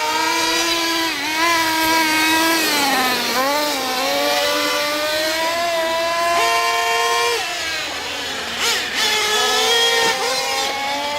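Several nitro RC trucks running together, their small two-stroke glow engines whining and revving up and down in overlapping pitches.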